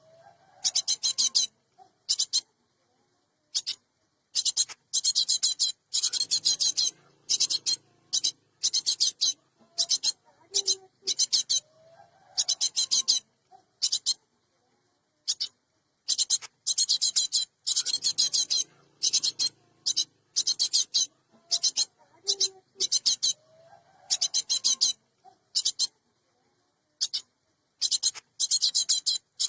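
Gelatik batu (cinereous tit) giving harsh, rasping scold calls in rapid runs of short bursts, grouped in clusters with brief pauses. The pattern repeats about every 12 seconds, as a looped lure recording does.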